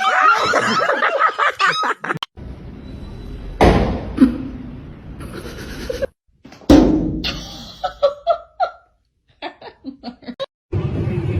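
A dog whining and yipping in rising and falling cries for about two seconds, then two loud thuds about three seconds apart, each dying away slowly.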